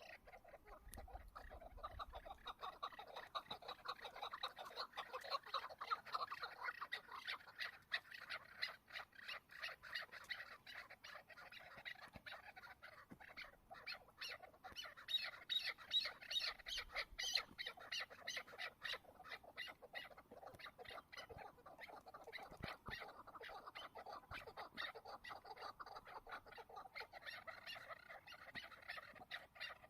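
Chukar partridges calling: a long, continuous chatter of rapid, repeated clucking notes.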